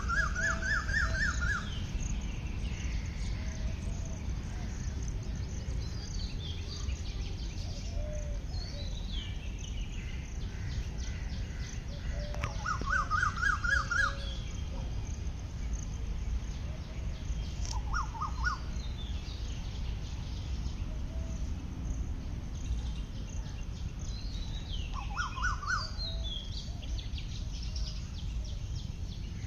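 Several wild birds singing: one repeats a short, fast trilled phrase four times, while others give quick, high, falling chirps in between, over a steady low background noise.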